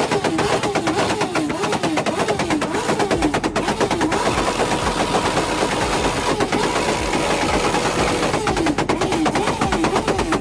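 A car engine revving hard, its pitch swinging up and down, with rapid crackling pops from the exhaust, many a second.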